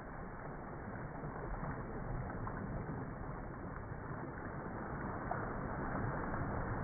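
Sea waves washing ashore, a steady rushing noise with a deep rumble that builds gradually.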